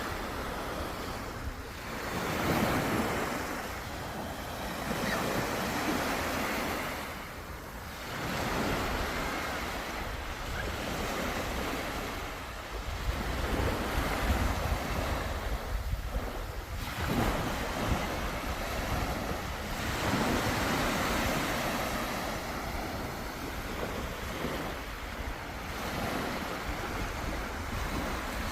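Sea waves breaking and washing up the shore in repeated surges a few seconds apart, with wind rumbling on the microphone.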